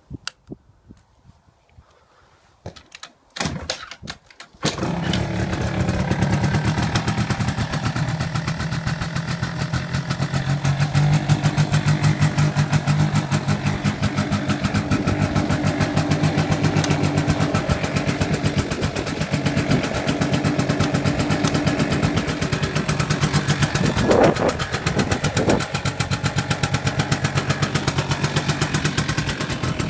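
Quadzilla R100 kids' quad bike engine starting about five seconds in after a few clicks, then running steadily at idle, with two short revs late on.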